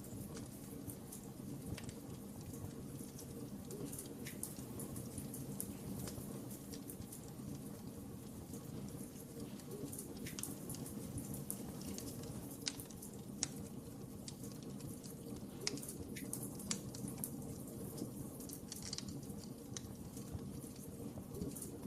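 Wood fire crackling in a fireplace: a steady low rush of burning logs with scattered sharp pops and snaps, a few louder ones in the middle.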